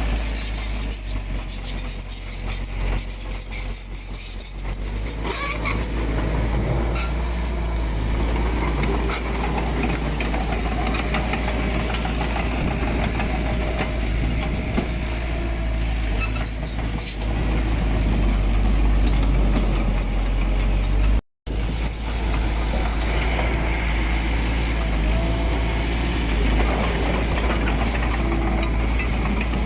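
Heavy diesel earthmoving machinery running steadily with a deep low rumble, and scattered sharp metallic clicks and squeaks over it. The sound cuts out completely for a moment about two-thirds of the way through.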